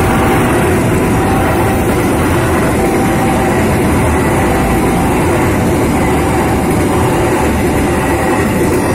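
Passenger train passing at speed close by: the diesel locomotive goes by first, then a long run of coaches, a steady loud rush and rumble of wheels on rails. A steady tone sounds above it.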